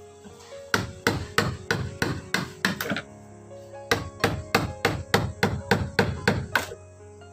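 Hammer blows struck in quick succession, about three or four a second, in two runs with a pause of about a second between them.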